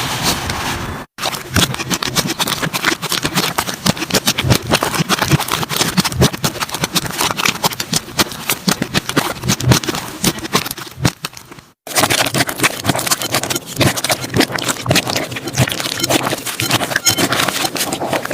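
Slime being squeezed and pressed by hand, making a dense run of sticky crackling and popping clicks. The sound breaks off twice, about a second in and again near two-thirds of the way through.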